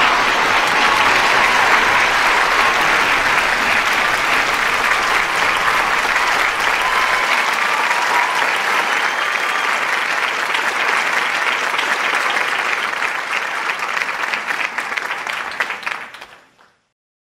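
Large audience applauding, the clapping thinning gradually and fading out about sixteen seconds in.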